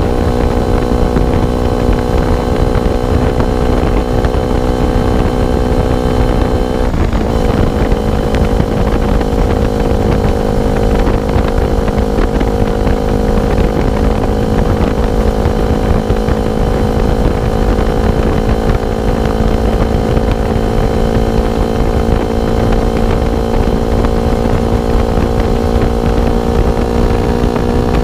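KTM RC single-cylinder engine through an R9 aftermarket exhaust, running at a steady pitch while riding. There is a brief dip in the note about seven seconds in, after which it settles slightly lower. Wind rumbles on the microphone underneath.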